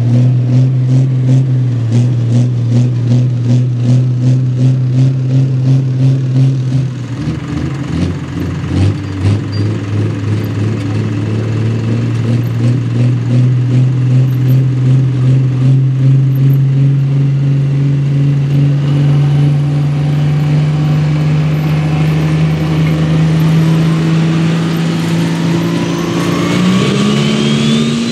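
Pro stock pulling tractor's turbocharged diesel engine running loud. It pulses steadily for the first several seconds, then its pitch climbs slowly for about twenty seconds, and a rising whine and a sharper pitch bend come near the end.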